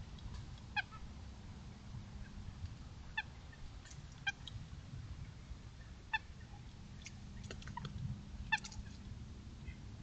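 A bird calling off-camera: about five short, sharp calls spaced a second or two apart, over a steady low background rumble.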